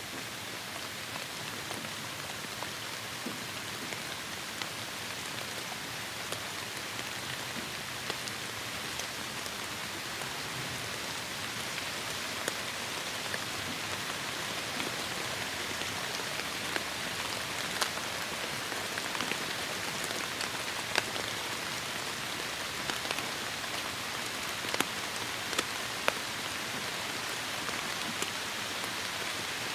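Heavy rain falling steadily, with sharp individual drop hits ticking on a surface here and there, more of them toward the end.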